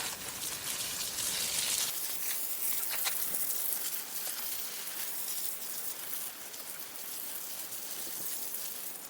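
Water from a garden hose spraying and pattering onto dry soil, a steady hiss that is strongest for the first couple of seconds and then goes on a little softer. The ground is being soaked to soften it.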